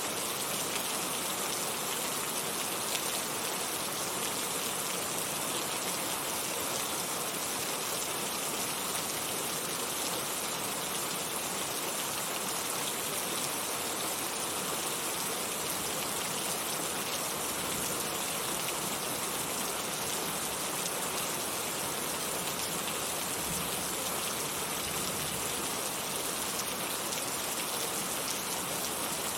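Heavy, loud rain falling steadily: a dense, even hiss of drops with no letting up.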